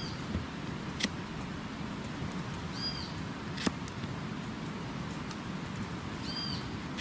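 A bird giving a short high call that rises and falls, three times, about every three seconds and a half, over a steady background hiss. Two sharp snaps come about one second and three and a half seconds in.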